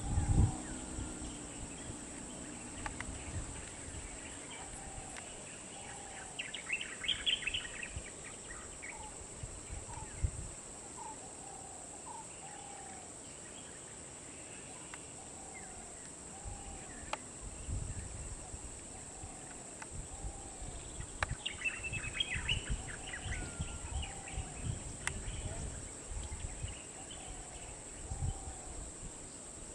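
Birds calling in open country: one bird repeats a short, slurred call every second or two, and bursts of higher twittering come twice. A steady high hiss and low gusty rumbles run underneath, with a thump right at the start.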